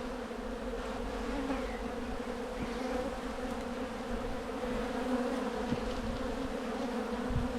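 Honey bees buzzing steadily around an open hive, a continuous drone.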